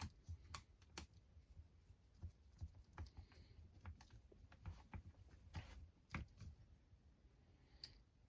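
Faint, irregular clicks and taps of small plastic and metal parts being handled while an RC crawler chassis is assembled.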